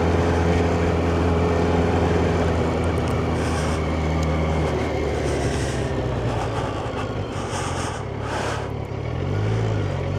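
Yamaha FZ1's inline-four engine running at low revs under way. Its note drops a little about halfway through, then sags and picks up again near the end as the throttle is eased and reopened.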